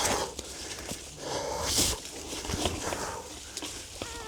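A person breathing hard in irregular puffs with scuffing and crunching over rough ground, with a short strained vocal sound near the end.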